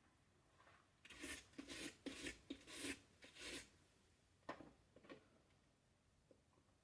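About six quick, quiet scraping strokes, a screwdriver grating against a stuck screw in the blender's plastic base, followed by two light clicks.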